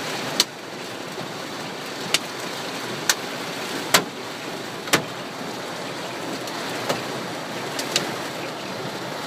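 Hailstorm on a car: a steady hiss of rain with about eight sharp, separate knocks of hailstones striking at irregular intervals.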